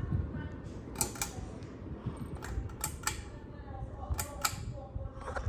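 Pull-chain switch of a 52-inch Fanimation Pylon ceiling fan clicking as the chain is pulled and let go: three pairs of sharp clicks, with a few single ones.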